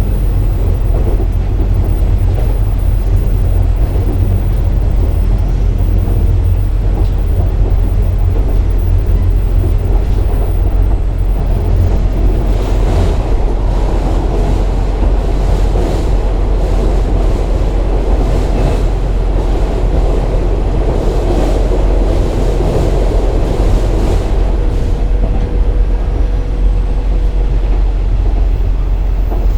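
KiHa 47 diesel railcar running along the line: steady diesel engine drone with wheel and rail noise, and a run of sharp clicks and knocks through the middle.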